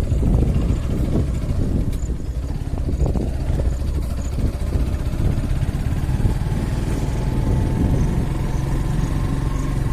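Steady low rumble of a running vehicle engine, with a faint steady tone joining in about halfway through.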